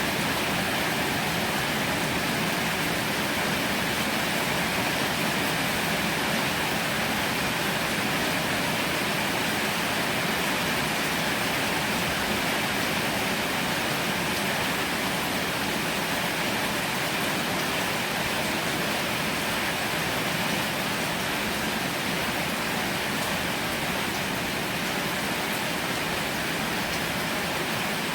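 Heavy rain falling steadily, a dense, even hiss with no thunder or separate drops standing out.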